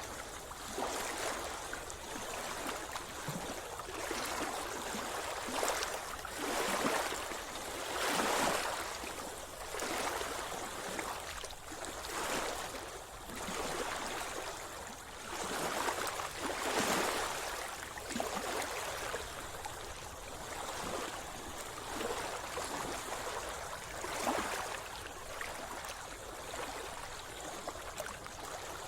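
Sea water splashing and sloshing close by, in repeated surges every second or two over a steady watery hiss.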